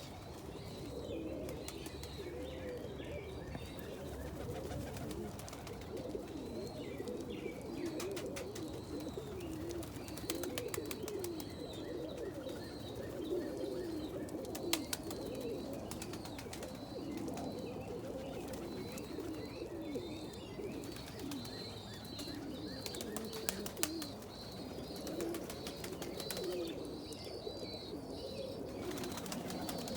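Many domestic pigeons cooing at once in a loft, their calls overlapping steadily, with scattered sharp clicks and a faint higher chirping in the second half.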